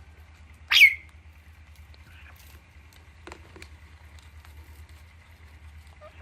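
A parrot gives one short, loud screech about a second in, followed by a few faint chirps and clicks, over a steady low hum.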